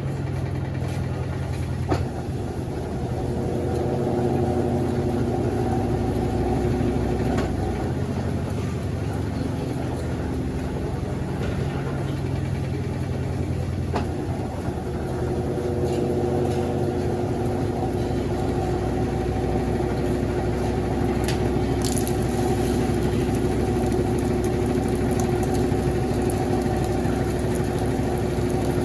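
Consul CWS12 12 kg washing machine running between rinses, draining and spinning. Its pump and motor make a steady hum whose tones shift partway through, with a couple of sharp clicks.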